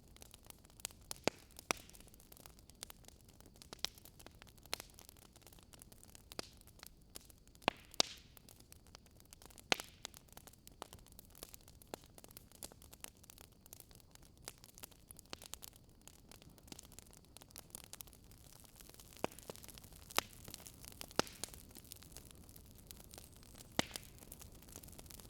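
Wood campfire crackling: irregular sharp pops and snaps over a faint, steady hiss of burning.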